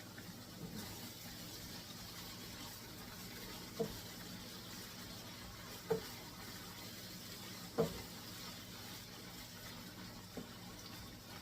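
Ground beef sizzling faintly as it browns in a frying pan, with four short knocks about two seconds apart as it is stirred.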